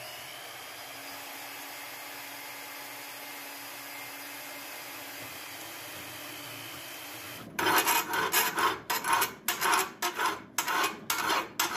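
Bandsaw running steadily as it cuts along marked lines in 3/16-inch steel plate. About seven seconds in this gives way to a louder run of scraping strokes, two to three a second.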